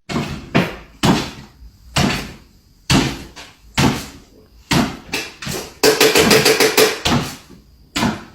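A series of sharp thumps against something hard, about one a second, with a fast rattling run of knocks about six seconds in.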